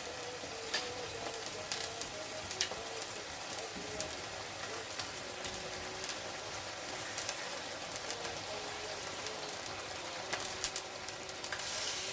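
Chicken pieces sizzling steadily as they sear in hot oil in a frying pan, with scattered crackles and pops.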